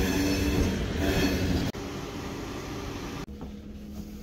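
Double-deck Intercity train rolling slowly past at close range, its wheels rumbling with thin high squealing tones on top. About a second and a half in, the sound cuts abruptly to a quieter rumble. Near the end it gives way to the low steady hum of a carriage interior.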